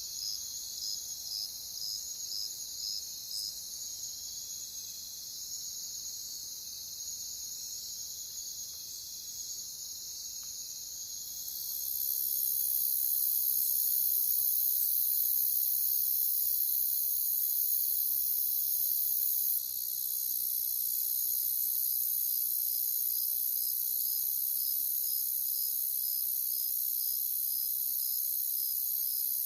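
Crickets chirping in a steady, dense chorus, one chirp standing out about twice a second. About twelve seconds in, a higher, hissing layer of the chorus swells and stays louder.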